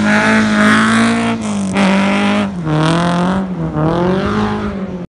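Datsun 1600 rally car's engine running at high revs under throttle as the car slides on dirt, the revs dipping briefly twice and climbing again, with the tyres scrabbling and spraying gravel.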